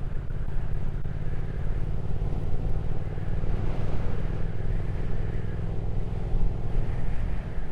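Triumph Speed Twin 1200's parallel-twin engine running steadily while the bike is ridden along, with a steady rush of wind and road noise over it.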